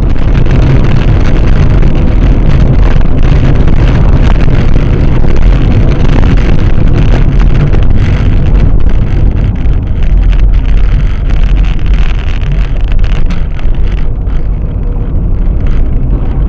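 Car driving, heard through a dashboard camera's microphone as a loud, steady rumble of road and wind noise, heaviest in the low end.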